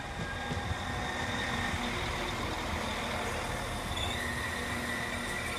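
A train running at the station platform: a steady low rumble with high steady whines over it.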